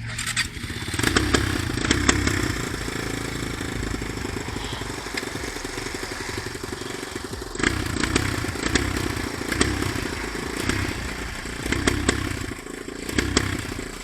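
Dirt bike engine running, its revs swelling up and dropping back several times.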